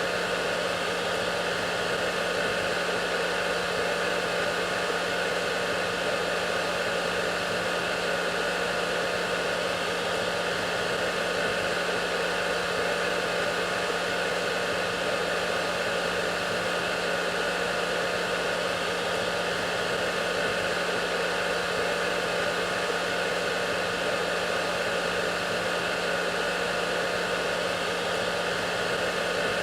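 Hair dryer running steadily at one speed: a constant whooshing rush of air with a motor hum underneath, unchanging throughout.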